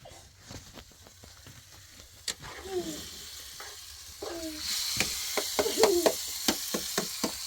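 Food starting to sizzle in hot oil, the hiss coming on suddenly about four seconds in and holding, with a utensil knocking and scraping in the pan.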